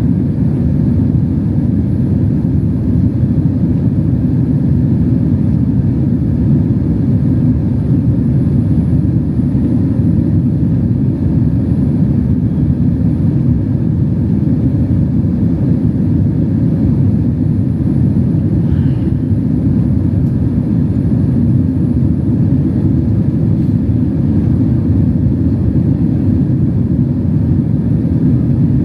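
Steady cabin rumble of a Boeing 767-300 airliner in flight: deep, even engine and airflow noise heard from inside the cabin.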